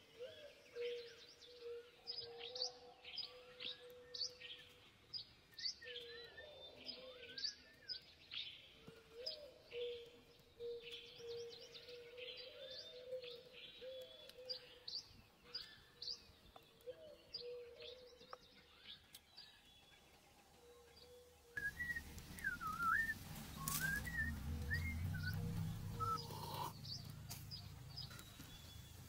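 Wild forest birds chirping, many short high calls in quick succession over a steady hum. About three-quarters of the way through, the background changes to a low rumble, with slower, wavering bird calls above it.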